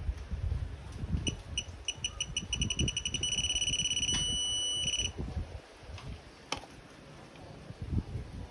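Digital torque adapter beeping, the beeps coming faster and faster as a cylinder head bolt is tightened, then holding a steady high tone for about two seconds as the set torque is reached. Low knocks and handling noise from the wrench and bolt run under it.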